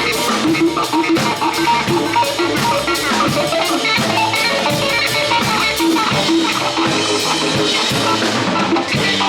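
Live psychedelic cumbia band playing an instrumental passage: drum kit keeping a steady beat under guitar and bass.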